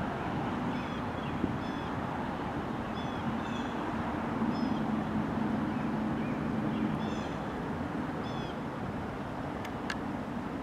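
A Norfolk Southern freight train's tank cars and boxcars rolling past at a distance: a steady rumble of wheels on rail with a low hum under it. A bird chirps over it again and again, and two sharp clicks come near the end.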